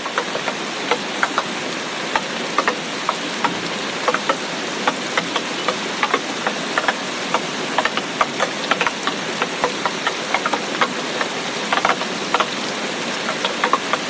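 Steady rain, with many sharp, irregular drops ticking on a hard surface, several a second.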